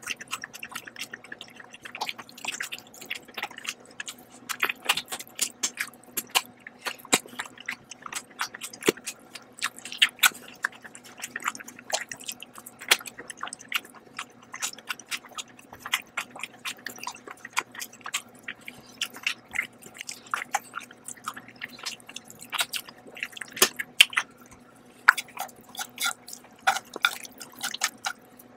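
Close-miked chewing of poached scallion chicken: a dense, irregular run of short mouth clicks and smacks.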